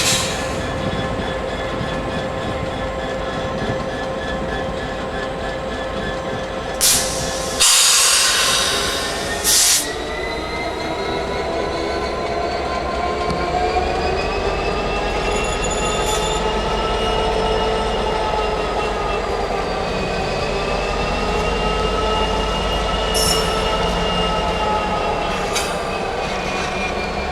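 A train running at a station, its machinery giving a steady whine whose pitch slowly rises and falls. About seven to ten seconds in come three loud bursts of hiss.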